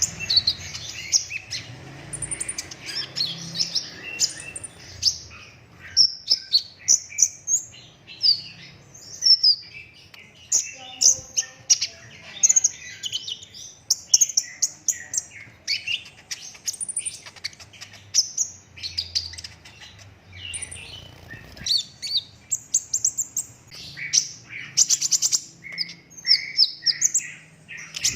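A kolibri ninja sunbird singing continuously in a fast run of high, sharp chirps and rapid trills, one phrase after another with hardly a pause.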